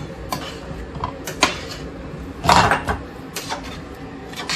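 Kitchen clatter of pots and utensils: several short sharp knocks and clinks, with a louder, longer scraping clatter about two and a half seconds in.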